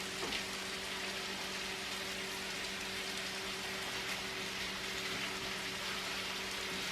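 Food frying in oil in a skillet: a steady sizzle with faint crackles, over a steady low hum.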